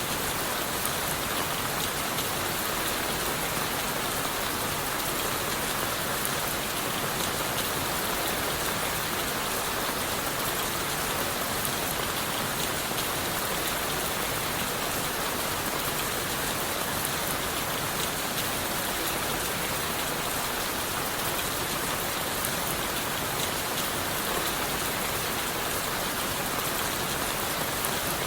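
Steady rain falling on leaves, wood and the forest floor, a constant even hiss of many drops with no change in strength.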